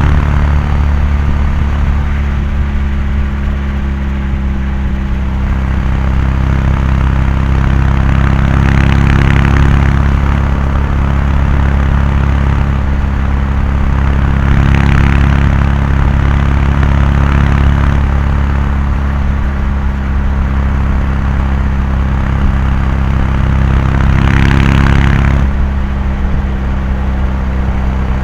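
Kawasaki Meguro K3's air-cooled parallel-twin engine and exhaust running steadily at expressway cruising speed, with a rushing noise swelling a few times. The engine note shifts slightly near the end.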